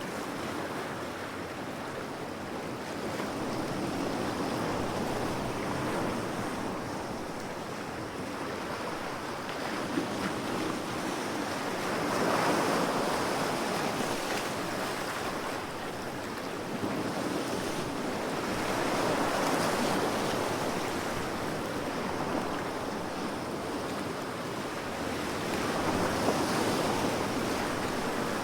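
Ocean waves washing onto the shore: a steady rush of surf that swells and falls back in slow surges, a big wave breaking every six to seven seconds.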